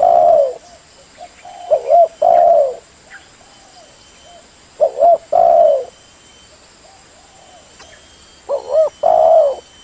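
Spotted dove cooing: loud repeated phrases, each two short notes followed by a longer falling coo, about every three to four seconds, with fainter coos in between.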